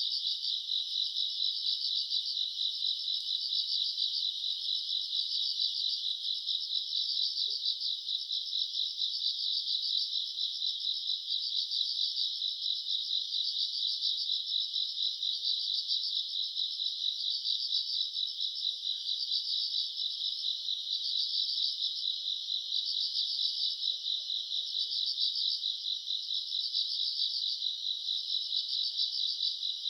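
A dense chorus of night grass insects chirring continuously in a high-pitched, finely pulsing trill that never breaks.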